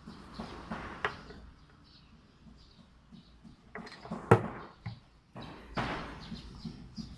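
Hands working on an airsoft rifle's parts: scattered clicks and short scraping, sliding sounds, with one sharp knock about four seconds in.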